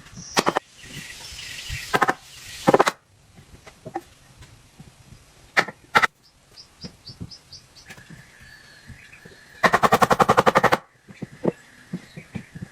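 Several sharp knocks, spaced unevenly, then near the end a rapid rattling run of about ten pulses a second lasting about a second, with faint high chirps between.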